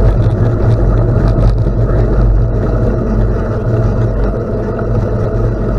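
Steady low rumble of wind on the microphone and bicycle tyres rolling over gravel, with a few faint clicks.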